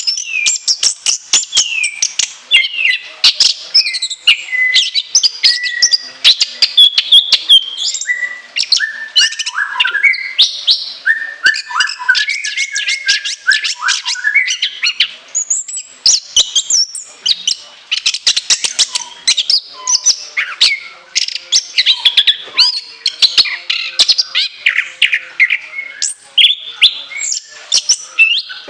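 Orange-headed thrush (anis kembang) singing a long, unbroken, varied song of rapid shrill whistled notes and quick changing phrases, with hardly a pause.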